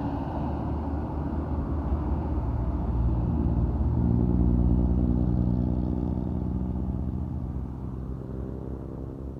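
Truck engine running with a deep, steady rumble that grows louder toward the middle, then fades.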